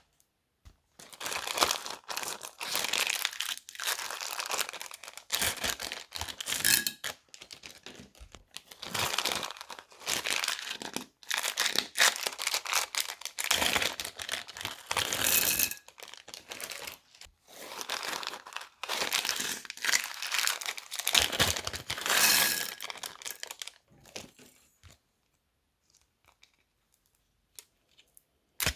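Crunchy slime being squeezed and worked by hand, crackling and crinkling in repeated bouts of a second or two. It stops about 24 seconds in, leaving only faint handling sounds.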